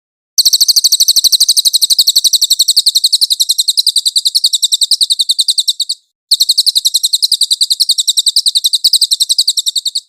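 Cililin bird singing: a long, fast, high-pitched trill of evenly repeated notes, about ten a second. It breaks for a moment about six seconds in, then carries on.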